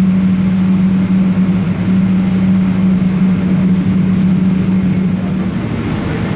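Boeing 777-200ER cabin noise during engine start: a loud, steady rush with a low hum running under it, which drops away about five and a half seconds in.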